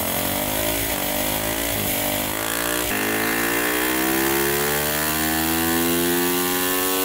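Stock Honda CRF450R's single-cylinder four-stroke engine under load on a chassis dyno, its rear wheel driving the roller. A few short climbs in revs, each broken off, in the first three seconds, then one long steady rise in pitch as the engine pulls up through its rev range.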